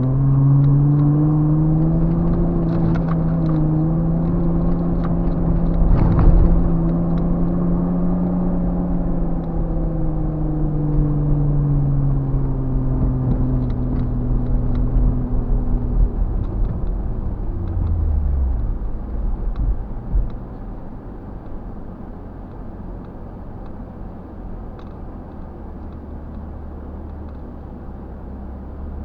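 Off-road 4x4 engine pulling under load through sand, its pitch slowly rising and then falling, with a sharp thump about six seconds in. Near the end of the first two-thirds the engine note drops away to a quieter low, steady running.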